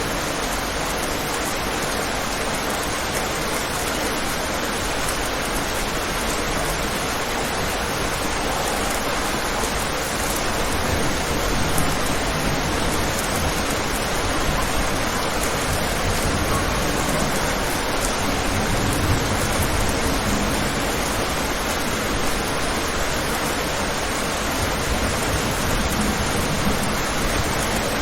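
Steady rain falling on a window, an even hiss, with a low rumble swelling briefly about two-thirds of the way through.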